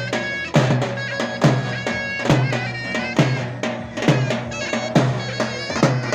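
Davul and zurna playing a folk dance tune: the shrill double-reed zurna holds a melody over the davul's steady booming beat.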